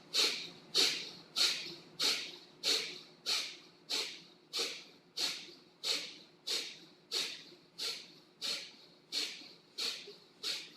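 Kapalabhati (skull shining breath): a steady series of short, sharp forceful exhales through the nose, about one and a half a second, each puff starting abruptly and fading quickly, with a passive inhale between.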